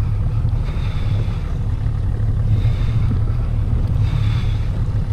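Small boat's outboard motor running at a steady low rumble, with wind buffeting the microphone and a whooshing swell about every second and a half to two seconds.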